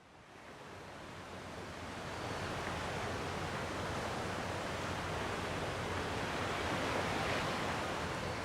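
Gentle sea waves washing on the shore, a steady rushing surf that fades in over the first couple of seconds and swells slightly near the end.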